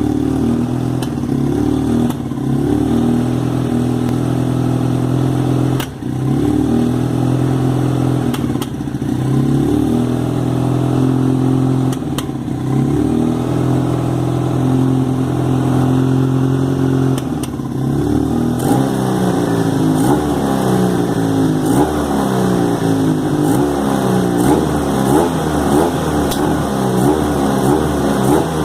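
Honda CBR motorcycle engine running rough with its carburettors spitting and coughing back (reversion), stumbling briefly several times, then revved in a quick series of short blips for the last third. The owner puts forward unsynchronised carburettors, valves or an air leak at the intake manifold as possible causes.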